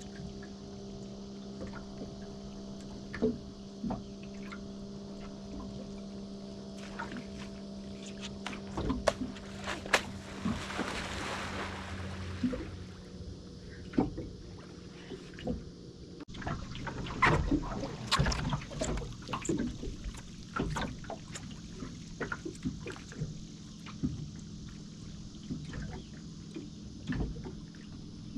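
Tow boat's engine running with a steady hum, with water splashing around it. A rushing burst of spray comes about ten seconds in, and from about sixteen seconds in the splashes become choppier and more frequent.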